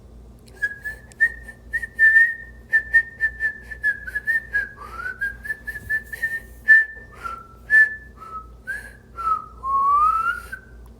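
A person whistling a tune: a run of short, repeated notes mostly on one pitch, then lower notes and slides, ending in a long rising slide.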